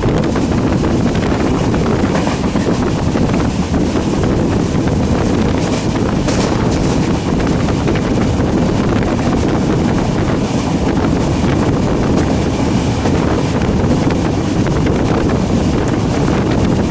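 Steady running rumble of a moving passenger train, with wind buffeting the microphone.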